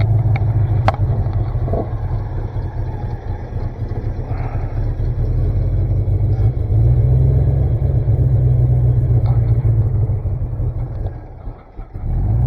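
Chevrolet C50 dump truck's engine running with a steady low rumble. Its sound drops away briefly near the end, then picks up again.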